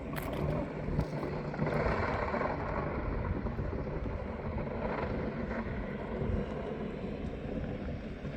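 A small engine running steadily, with a steady rush of noise over it.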